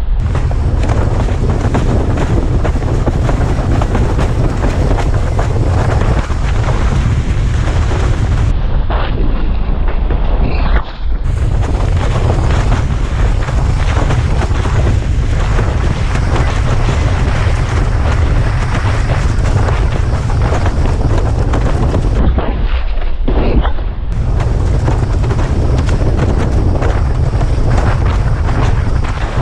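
Heavy wind buffeting the microphone of a head-strap-mounted action camera while windsurfing at speed: a loud, steady low rumble under a rushing hiss.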